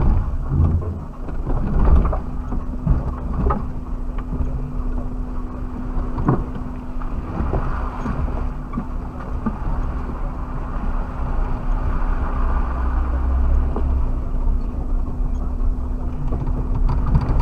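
Suzuki 4x4 driving off-road over rough ground, heard from inside the cabin: a steady engine drone over a low rumble, with a few sharp knocks and rattles as it goes over bumps.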